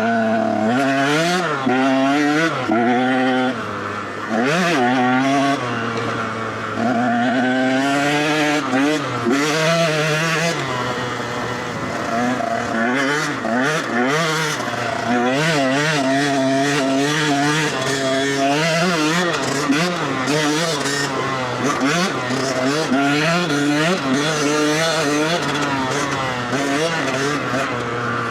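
Dirt bike engine revving hard while being ridden. Its pitch climbs and falls again and again as the throttle is worked and gears change.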